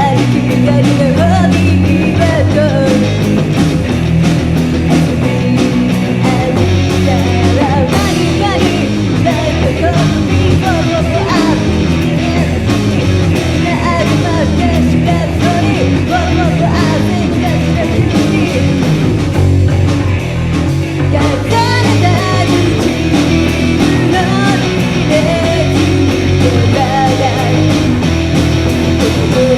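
Rock song with guitar and a sung vocal, loud and even in level.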